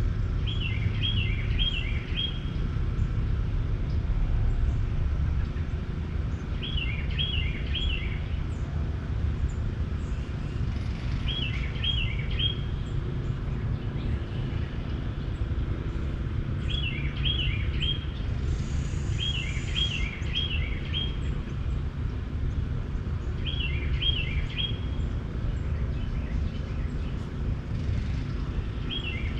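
A bird repeats the same short song phrase of a few quick high notes about every five seconds over a steady low rumble.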